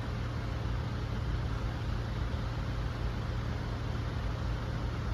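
Steady low engine hum of road traffic, with an even background hiss and no sudden sounds.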